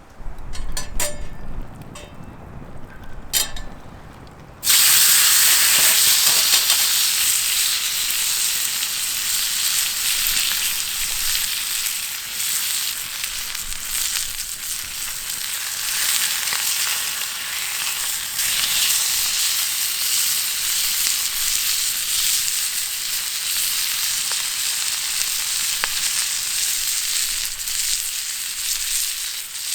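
A few light knocks, then about four and a half seconds in food goes into a hot pan and starts sizzling loudly and steadily, with crackling spatter throughout.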